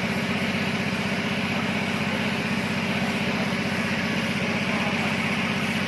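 Air compressor running steadily, with a fast, even pulsing and a constant hiss.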